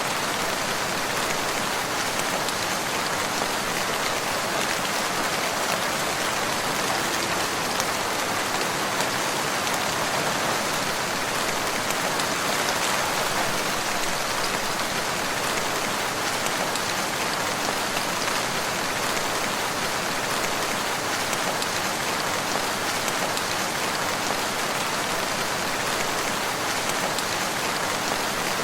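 Steady rain falling and pattering on surfaces, even and unbroken.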